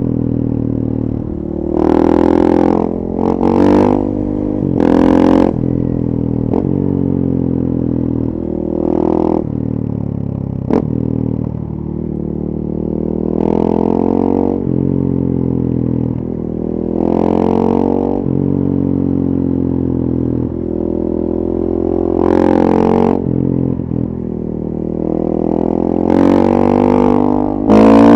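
Single-cylinder four-stroke engine of a 2014 KTM 450 EXC supermoto with a full FMF 4.1 exhaust, heard while riding. The pitch climbs and drops again and again as the bike accelerates, changes gear and slows, with a handful of short, louder bursts of throttle and the strongest pull near the end.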